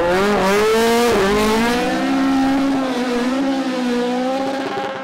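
Rally car engine at high revs, loud: the pitch climbs, drops sharply just over a second in, then holds high and wavers before fading at the end.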